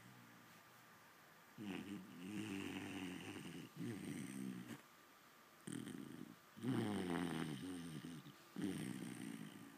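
Vizsla puppy snoring in its sleep. After a quiet first second and a half, about five snores follow, one on each breath.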